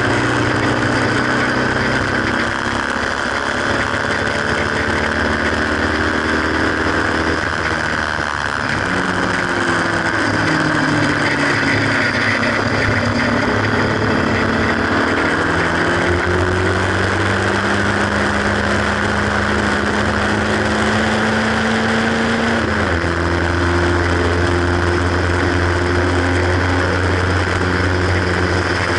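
Haynes Roadster kit car's 1.8-litre four-cylinder engine pulling hard on track, heard from the open cockpit with wind rush. The engine note climbs steadily with revs and drops sharply at gear changes, about 8 seconds in and again near 23 seconds.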